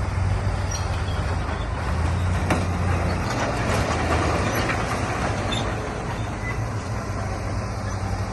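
Diesel engine of heavy earthmoving equipment running steadily with a low drone. About two and a half seconds in there is a sharp knock, followed by a louder stretch of noise that lasts until about five seconds in.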